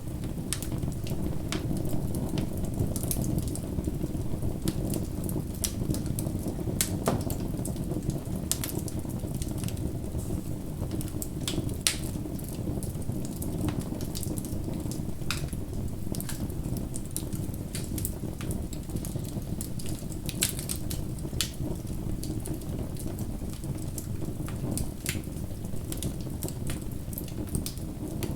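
Wood fire burning steadily, with a low rush of flame and frequent irregular crackles and pops of burning wood, a few of them sharper than the rest.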